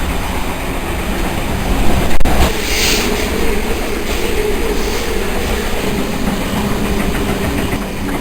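Passenger train running along the track, a steady rumble of wheels on rail with some clickety-clack. About two seconds in there is a loud knock, followed shortly by a brief hiss.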